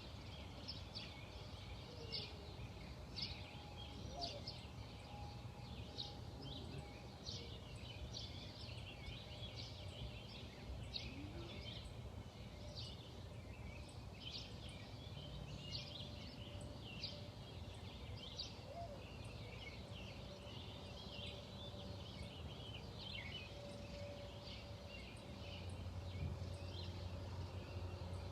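Small birds chirping: short high chirps come a few times a second, over a low steady rumble that swells near the end.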